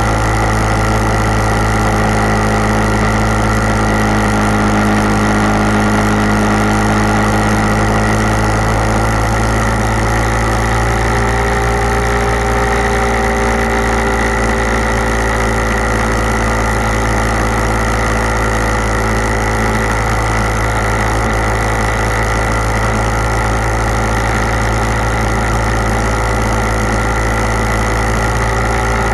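Motorcycle engine running at a steady cruising speed, an even drone with wind and road noise; its pitch shifts slightly about eleven seconds in.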